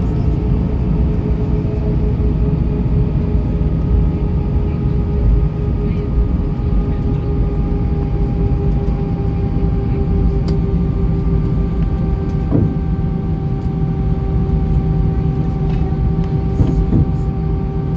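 Airbus A320-232 cabin noise from a window seat: its IAE V2500 turbofan engines running steadily, a heavy rumble with several held whining tones on top.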